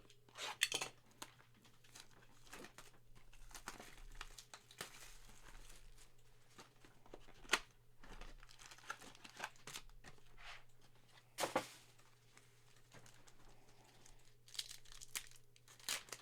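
A trading-card mini box being opened: cardboard and plastic wrapping torn and crinkled, with scattered rustles and clicks and one louder rip about eleven seconds in, over a faint steady hum.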